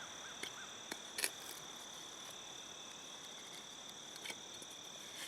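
Faint, steady chirring of crickets, with a few light clicks about half a second, one second, just over a second and four seconds in.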